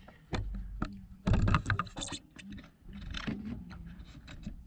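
Handling noises: scattered clicks and knocks with bursts of rubbing and rustle, the loudest about a second and a half in.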